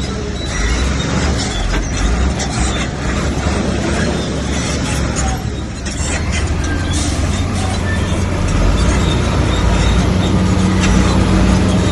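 Komatsu bulldozer's diesel engine running steadily under work, with scattered clanks and scrapes over it; the engine grows a little louder about two-thirds of the way through.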